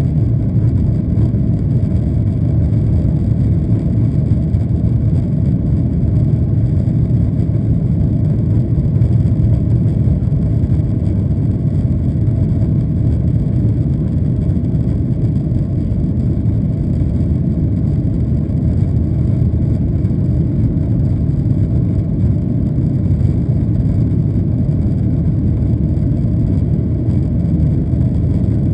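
Steady low rumble of a Boeing 737-800's CFM56-7B jet engines and airflow, heard from inside the passenger cabin, holding an even level with no spool-up or change in pitch.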